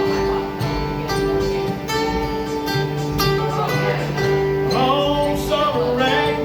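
Music: acoustic guitars playing a country song between sung lines, a strummed rhythm guitar under lead guitar fills.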